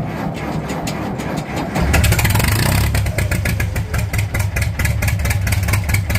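International diesel tractor engine cold-starting on a shot of starting fluid: it turns over roughly, catches about two seconds in and runs loudly with a rapid, even beat.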